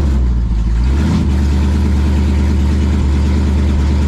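Plymouth Belvedere drag car's engine running at low speed, a steady low rumble whose pitch dips and shifts briefly about a second in, then holds steady.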